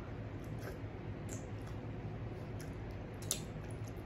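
Faint wet chewing of a mouthful of fufu and okra soup, with a few soft mouth clicks and smacks, the sharpest a little after three seconds in, over a low steady room hum.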